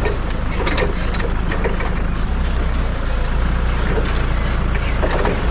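Farm machine engine running steadily, with scattered short knocks and clatter over it.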